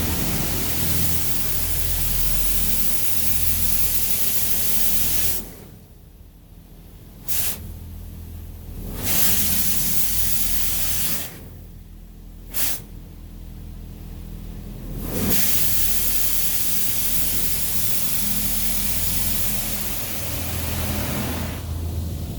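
High-pressure rinse jets of a touchless car wash hitting a van, heard from inside the cabin: a loud steady hiss of spraying water. The spray drops away twice for several seconds as the jets pass off the van, with a brief spurt in each lull.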